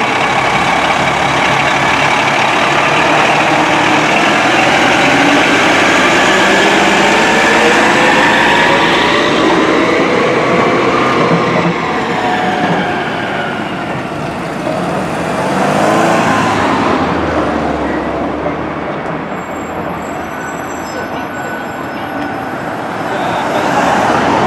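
Fire department medic engine responding under emergency lights, its siren wailing up and down over the truck's engine. The sound is loudest in the first half, fades after about twelve seconds as the truck moves away, and swells again near the end.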